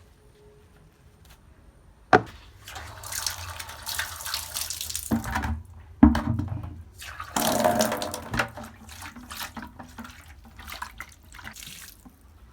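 Tap water running into a sink in two spells, with sharp knocks about two and six seconds in and smaller clatter afterwards, as when washing up.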